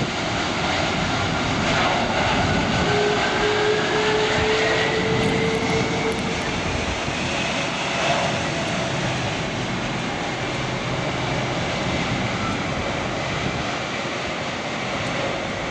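Boeing 747-400 jet engines running with a steady rushing noise. An engine whine climbs in pitch through the first half, and the sound eases slightly towards the end.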